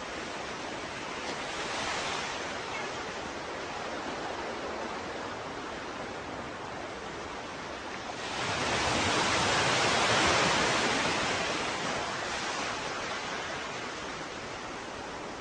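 Ocean waves breaking and washing ashore: a small swell of surf about two seconds in, then a larger wave breaking sharply about eight seconds in and slowly washing out over the next several seconds, over a steady background hiss of surf.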